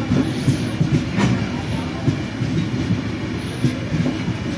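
Train running slowly on track, heard from inside the moving train: a steady rumble of wheels on rails, with a few sharp clicks, the clearest about a second in.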